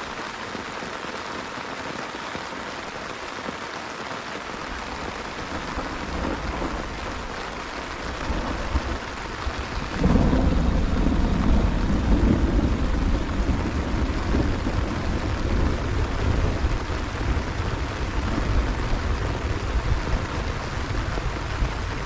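Heavy rain falling steadily. Thunder rumbles in low from about four seconds in and breaks into a loud clap about ten seconds in, followed by a long rolling rumble.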